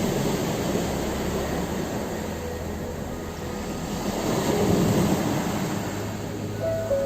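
Ocean waves washing onto a shore: a steady rush of surf that swells about four to five seconds in. Soft music plays over it in long held notes.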